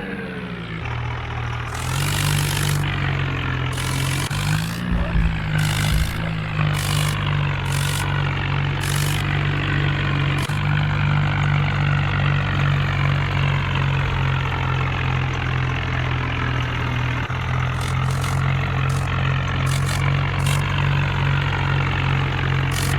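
Heavy diesel engine running hard, its note dropping in the first second, picking up again about two seconds in, then holding steady.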